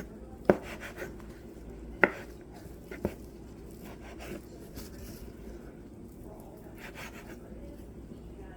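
Kitchen handling sounds while cooked chicken is pulled apart by hand. Three sharp knocks of things set down or tapped on a hard surface come in the first three seconds, followed by soft rubbing and handling.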